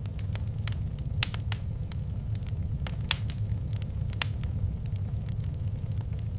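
Wood fire in a fireplace crackling, with sharp irregular pops over a steady low rumble. The loudest pops come about a second in, around three seconds and around four seconds.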